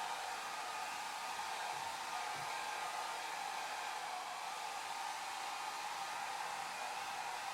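Hair dryer running steadily, an even rush of blown air with a strong band of hum in the middle pitches and a faint thin motor whine.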